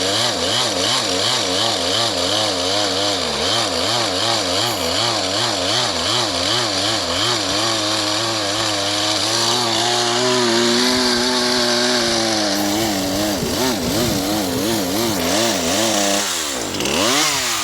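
Two-stroke chainsaw engine running with its speed hunting: the pitch wavers up and down a few times a second, holds steadier for a few seconds midway, then dips deeply and rises again near the end. The saw is running poorly, barely working and, in the owner's words, not running right even with no load.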